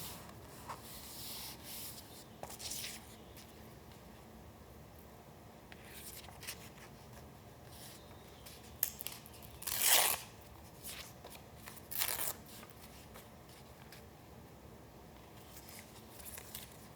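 Paper being handled: a few short rustles and tears of paper separated by quiet, the loudest about ten seconds in and another about two seconds later.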